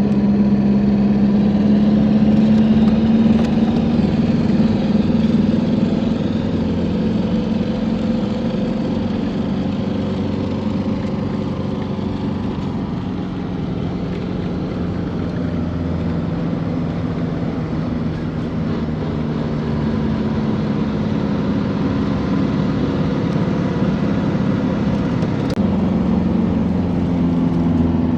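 Truck engine running steadily, its pitch sagging a little through the middle and stepping up near the end as the engine speed changes.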